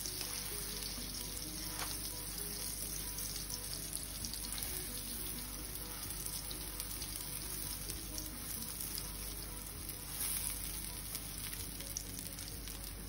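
Chicken burger patties sizzling steadily in butter on a flat griddle pan as they fry.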